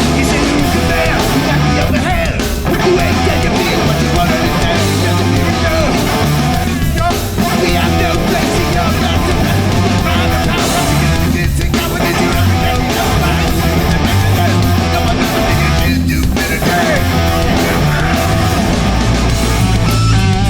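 Hardcore punk band playing live at full volume, led by distorted electric guitars.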